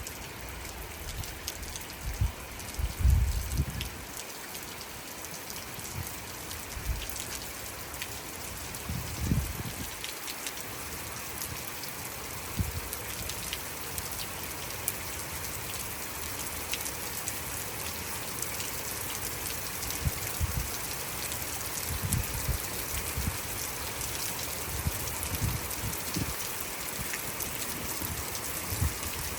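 Steady rain falling, with individual drops ticking on surfaces. A few dull low thumps come and go, near the start, about a third of the way in, and more often towards the end.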